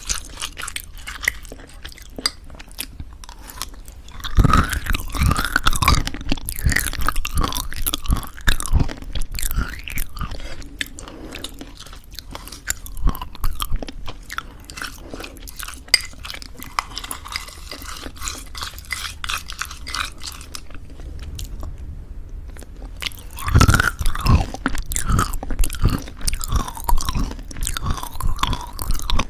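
Close-miked chewing of crunchy homemade granola in thick yogurt, with dense crackling crunches. Louder bouts of crunching come about four seconds in and again near the end, with quieter chewing between.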